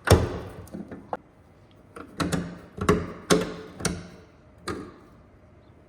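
A series of sharp knocks and clanks of hand tools working on metal, about eight spread over a few seconds, the loudest right at the start and several with a short ring.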